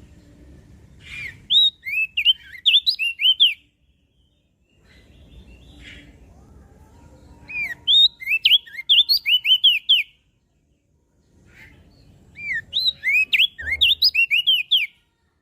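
An opior jambul (crested darkeye) singing three phrases, each a quick run of short, sweeping whistled notes lasting about two seconds, with pauses of a few seconds between them.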